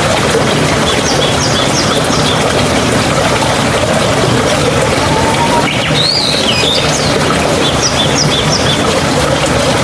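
Steady rush of babbling stream water with birds calling over it. Runs of short, high chirps come about a second in and again near the end, and a sweeping call comes about six seconds in.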